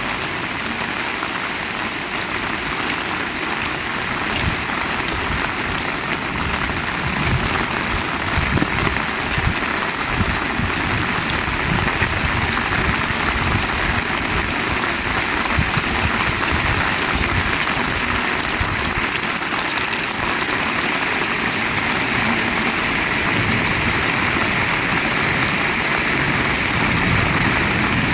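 Heavy rain falling steadily as an even, dense hiss, with an irregular low rumble underneath.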